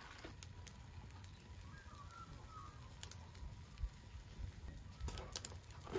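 Quiet outdoor background with a low rumble, a few faint bird chirps about two seconds in, and scattered light clicks, more of them near the end.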